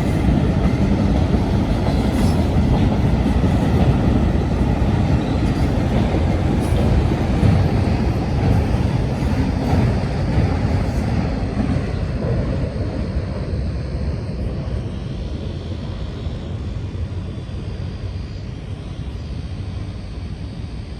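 Freight cars of a Union Pacific manifest train rolling past on the rails. The noise is steady at first, then fades away gradually over the second half.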